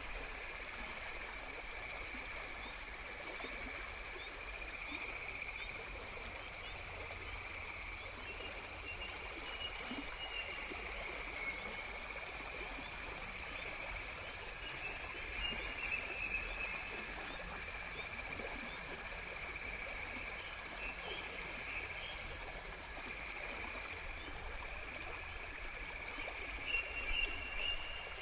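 Outdoor nature ambience of insects: a steady high-pitched chirring chorus over an even hiss, with a rapid pulsing trill about halfway through and a short high note repeating about twice a second through the second half.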